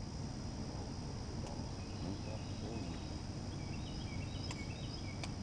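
Faint songbird calls, a quick series of short chirping notes, over a steady low hum, with a few sharp clicks near the end.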